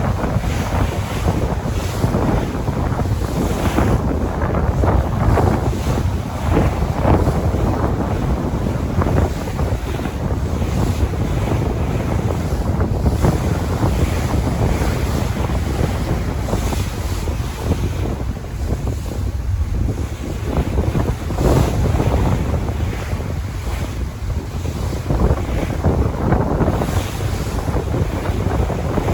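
Sea waves washing and breaking in repeated swells, with wind buffeting the microphone as a steady low rumble underneath.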